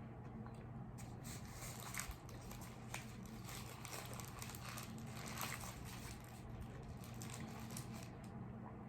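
Close-up mukbang eating sounds: chewing and biting, with irregular wet clicks and crackles, over a steady low hum.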